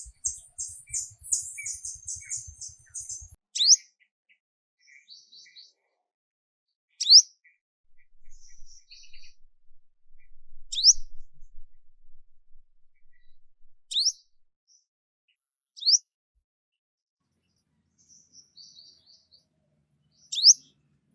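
Small songbirds calling: a fast run of high chirps over the first three seconds, then a sharp rising whistle repeated every three to four seconds, with softer twittering between.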